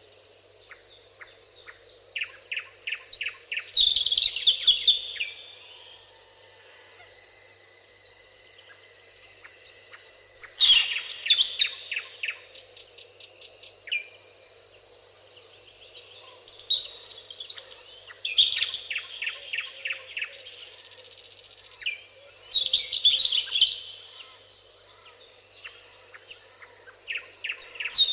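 Songbirds singing in a meadow: a loud, fast trilling phrase comes back about every six seconds, with scattered high chirps from other birds in between and a steady thin high tone underneath.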